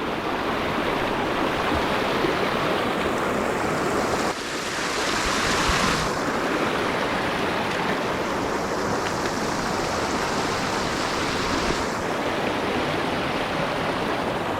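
River water rushing over rocks: a steady wash of noise, a little louder and hissier for a couple of seconds about four seconds in.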